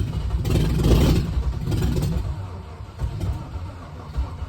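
Freshly rebuilt Rover V8 petrol engine of a 1998 Land Rover Discovery 1 running rough after a start and failing to settle into an idle, loudest for the first two seconds and then dying away. The owner suspects a clogged fuel pump return line keeps it from idling.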